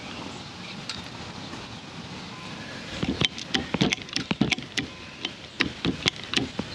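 Hydraulic cable lug crimper being worked by hand to take up the slack in its jaws: a run of sharp, irregular metal clicks and knocks, several a second, starting about halfway in.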